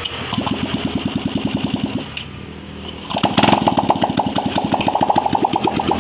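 Yamaha Aerox scooter's liquid-cooled single-cylinder engine running with a rapid, even pulse, easing off briefly and then revving up louder about three seconds in. It is running normally, with its radiator coolant level stable.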